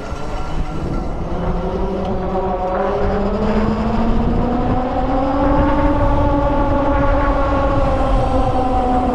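Freego X2 electric dirt bike's motor whining under way, its pitch climbing slowly as the bike gathers speed and easing slightly near the end, over a steady low rumble.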